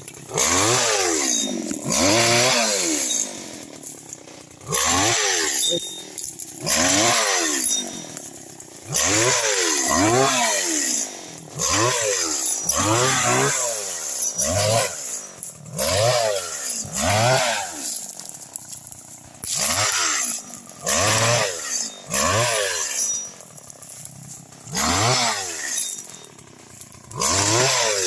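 Small engine of a motorized oil-palm chisel (dodos mesin) revved again and again, about one burst every two seconds, its pitch rising and falling with each burst and dropping back to idle between, as the chisel cuts palm shoots and fronds.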